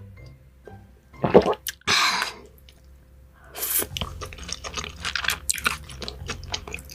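Close-miked wet eating sounds: a few louder moist noises, then from about four seconds in a rapid run of quick wet clicks of chewing and mouth smacking.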